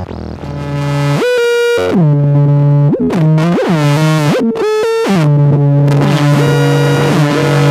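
Homemade noise synthesizer's square-wave oscillators through a lo-fi delay, playing a loud, buzzy sequenced tone. The pitch jumps up to a higher note and glides back down several times, then settles on a low note over the last couple of seconds.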